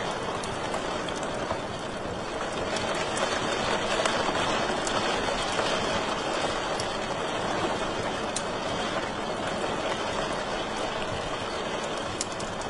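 Wood fire in a fireplace burning with a steady rushing hiss and scattered sharp crackles and pops.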